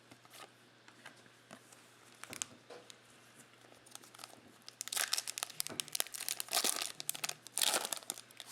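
Foil trading-card pack wrapper crinkling and tearing as it is opened, with cards being handled. Light rustles and clicks come first, then louder stretches of crinkling in the second half.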